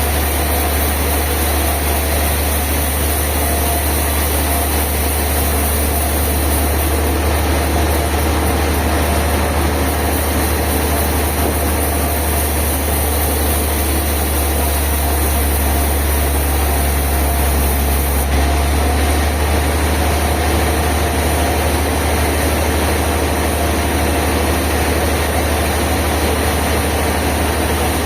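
Sawmill machinery running with a steady, low engine drone. The sound shifts slightly about eighteen seconds in.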